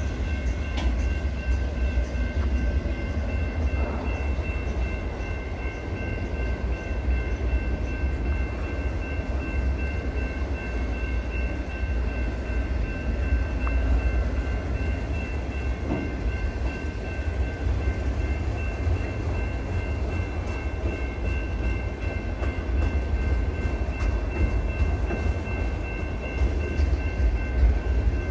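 Freight train of autorack cars rolling steadily past: a constant low rumble of wheels on rail, with the grade crossing bell ringing as a steady high tone throughout.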